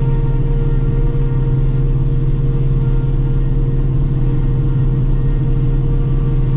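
Self-propelled forage harvester running steadily: a constant low engine drone with a steady higher hum over it.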